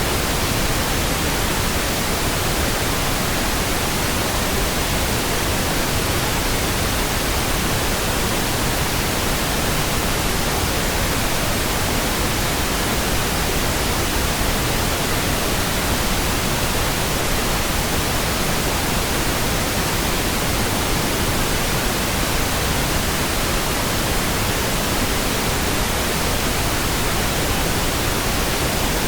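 Steady synthetic pink noise: an even, unchanging hiss across the whole range of pitch, with no events.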